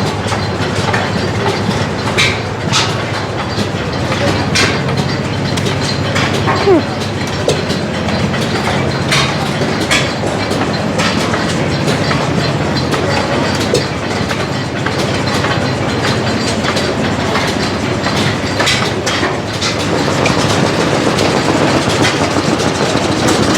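Antique stationary engines running: a steady low chugging hum with many sharp, irregular metallic clicks and clacks.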